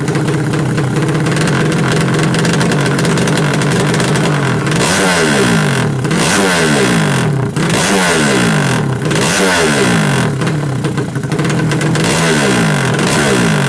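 Race-built 200 cc engine of a Yamaha Jupiter Z 5TP, a four-stroke single-cylinder motorcycle engine, running at a fast steady idle. About five seconds in it is blipped repeatedly, roughly once every second and a half, each rev jumping up sharply and sinking back.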